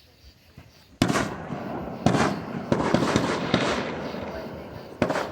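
Fireworks going off: a sudden loud bang about a second in, then several more bangs over the next few seconds with crackling between them, and another bang near the end.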